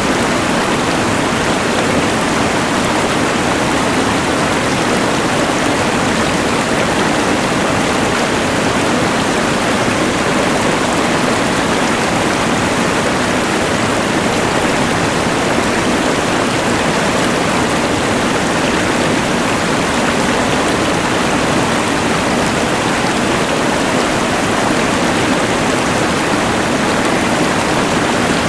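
Rushing mountain river layered with the steady hiss of a LectroFan white noise machine, an even, unchanging wash of noise.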